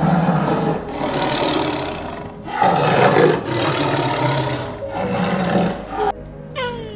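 A large animal giving loud, rough calls, four or five in a row, each about a second long; they stop about six seconds in.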